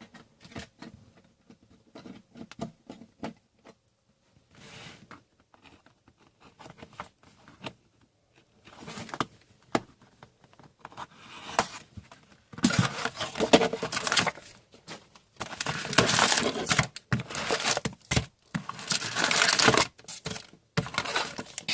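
Plastic and foil wrapping of a hockey card hobby box and its packs crinkling and tearing as they are handled and ripped open: light scattered rustles and clicks at first, then loud, sustained crinkling and tearing in repeated bursts through the second half.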